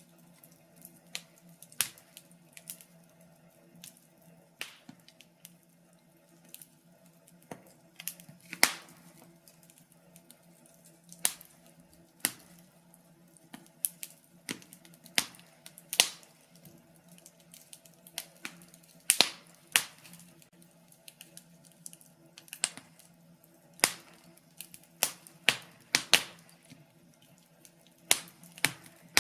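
Wood fire crackling: irregular sharp pops and snaps, a louder one every second or two among smaller ticks, over a faint steady low hum.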